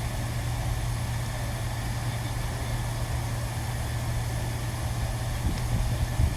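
A machine running with a steady low hum, with a few soft low knocks near the end.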